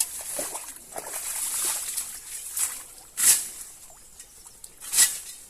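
Sloshing and squelching in waterlogged mud, with two louder, sharp splashing hits about three and five seconds in.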